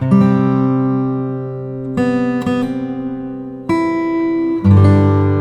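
Calm acoustic guitar music: chords strummed every second or two and left to ring out between strums.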